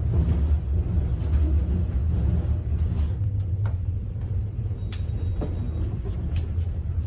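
Moving double-decker sleeper train heard from inside a carriage: a steady low rumble, with a few short clicks and knocks in the second half.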